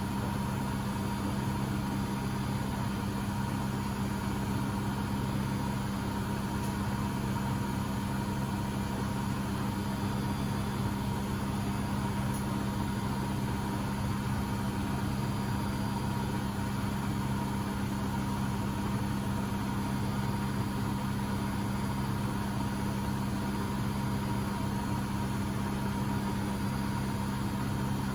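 Beko WMB71642W washing machine spinning its drum at speed in the first intermediate spin, set to 1000 rpm: a steady motor hum with a faint constant whine above it.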